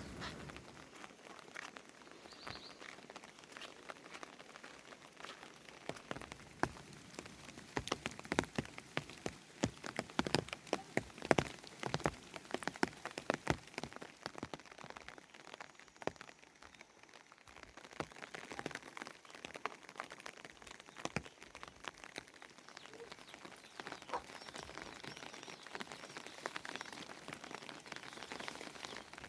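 Rain falling as separate drops tapping on a hard surface over a faint hiss of rain, the drops coming thickest about a quarter to half of the way through.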